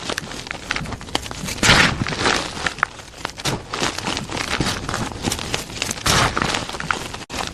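Blocks of plain gym chalk being crushed, with a dense run of crunching and crackling and heavier crunches about two seconds in and again about six seconds in.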